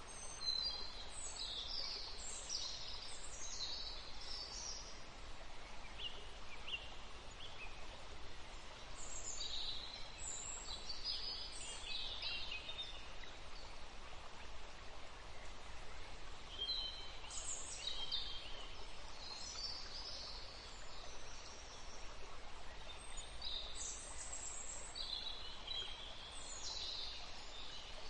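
Small birds chirping in scattered bursts of short, high calls over a steady background hiss.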